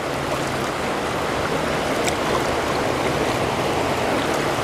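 Steady rush of the Pigeon River's current running over rocks, an even wash of water noise with no break.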